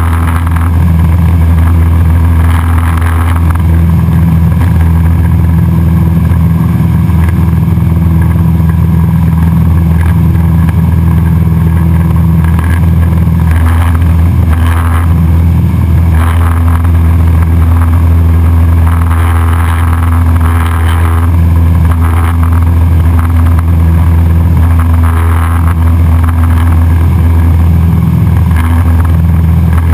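Cessna 172SP Skyhawk's four-cylinder Lycoming IO-360 engine and propeller running at a steady setting: a loud, even, deep hum that does not change.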